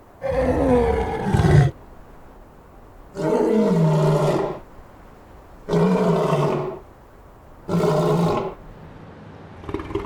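African lion roaring: four loud calls, each sliding down in pitch and each shorter than the last, with a fainter call starting near the end.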